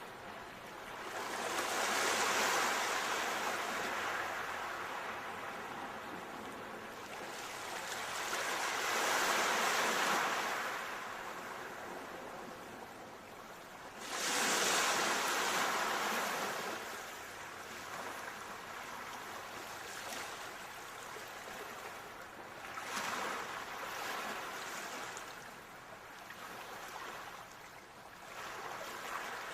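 Ocean waves breaking and washing in slow swells, about five in all, each rising and fading over several seconds; one comes in suddenly about halfway through.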